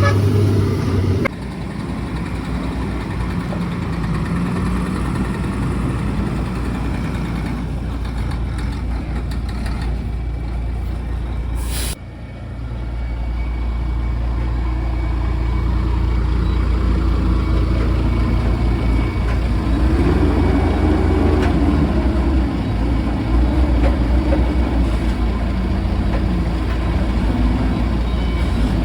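Heavy diesel truck engines running steadily at low revs, with a brief sharp noise about twelve seconds in.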